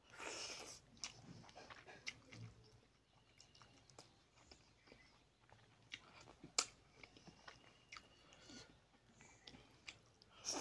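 A man chewing a mouthful of tilapia fish head curry with rice, eaten by hand: soft wet chewing and mouth clicks, with a louder burst as food goes into the mouth at the start and a sharp click about six and a half seconds in.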